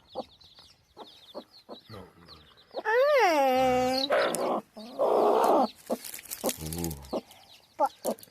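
Baby chicks peeping in quick high chirps while a mother hen clucks low and repeatedly. About three seconds in a loud drawn-out call rises and then falls, followed by a loud rough, hissing burst lasting over a second.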